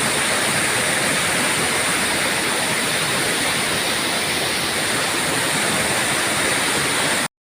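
Fast-flowing river water rushing steadily, strong and dangerous, then the sound cuts out abruptly near the end.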